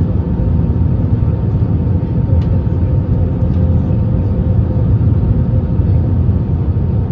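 Cabin noise inside an Airbus A321neo with CFM LEAP-1A engines: a steady low rumble of engines and airflow with a faint steady hum, and no sudden events.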